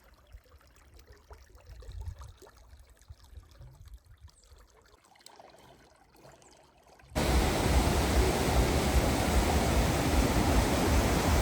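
Faint low rumbling for about seven seconds, then a sudden switch to the loud, steady rush of a waterfall.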